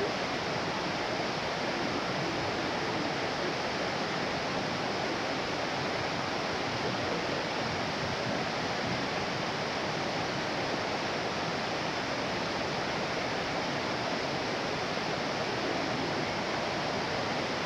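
Steady rush of a waterfall's cascading water, an even unbroken roar without pauses.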